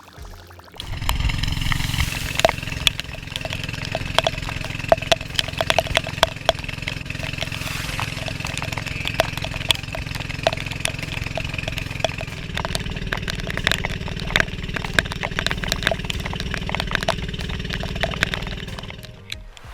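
An engine starts about a second in and runs steadily, with frequent sharp ticks over it, then stops shortly before the end.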